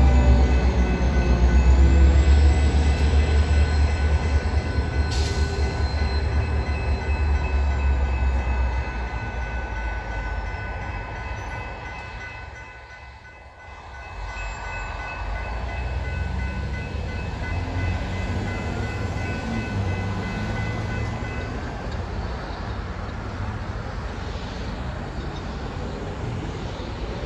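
Union Pacific diesel locomotives rumbling as they pull away over the crossing, the engine noise fading over the first ten seconds, with a brief high whine early on. A grade-crossing warning bell rings steadily and stops about two-thirds of the way through as the gates go up.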